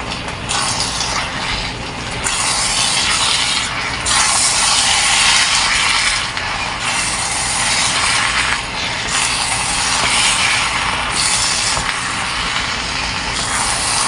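Chicken liver and tofu sizzling in a nonstick pan while a plastic spatula stirs and scrapes through it, the hiss swelling and easing in several waves as the food is turned.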